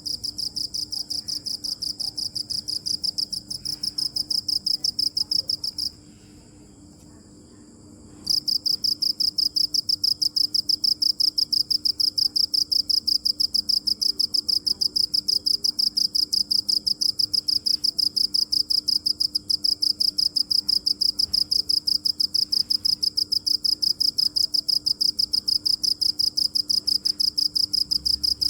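A cricket chirping in a fast, even run of high-pitched pulses. It falls silent for about two seconds some six seconds in, then starts again. A faint steady low hum lies underneath.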